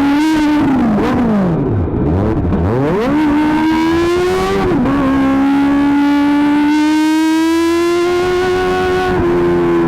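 Kawasaki ZX-25R's 250 cc inline-four engine through an Akrapovic GP titanium exhaust, running at high revs. About one and a half seconds in, the revs drop sharply and climb straight back; from about five seconds the pitch holds high and rises slowly.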